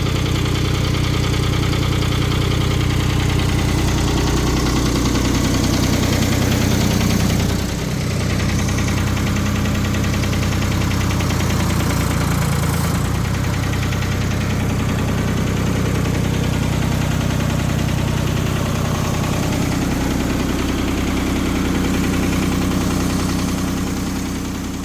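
Diesel engine of a 1973 Ford 4500 industrial backhoe idling steadily with a freshly replaced exhaust manifold. The engine speed dips briefly about eight seconds in.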